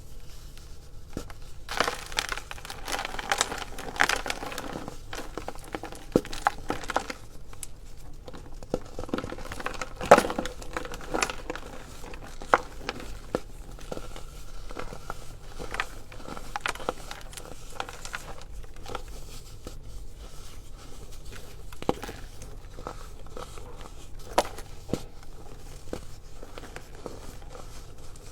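Baking soda crunching and crackling under close handling: an irregular run of small crackles and sharp clicks, densest early on, with the loudest snap about ten seconds in.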